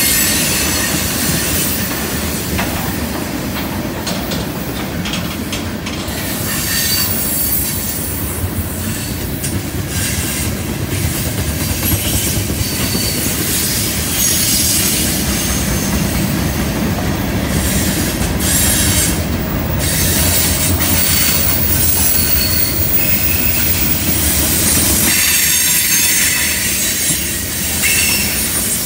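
Freight cars of a long CN freight train (tank cars, covered hoppers and gondolas) rolling past: a steady rumble and rattle of steel wheels on rail, with short high-pitched wheel squeals coming and going.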